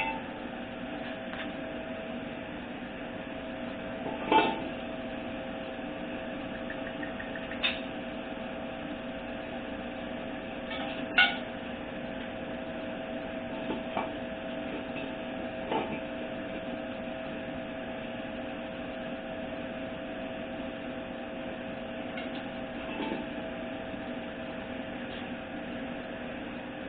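A click-type torque wrench tightening transmission bolts to 27 ft-lb, giving a short sharp click each time a bolt reaches torque, about six clicks spread out, over a steady background hum.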